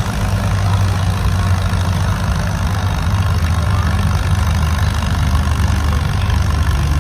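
Antique tractor engine running steadily with a deep, even drone.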